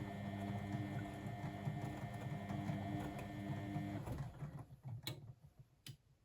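Blomberg WAF 7442 SL washing machine running with a steady motor hum and whine, which stops about four seconds in and fades out, followed by two sharp clicks.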